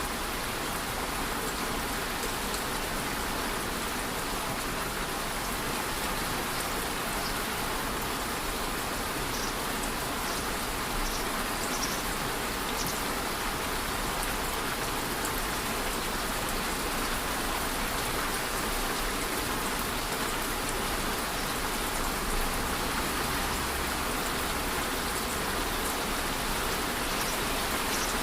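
Steady, even rain falling, with a few faint drip ticks about halfway through.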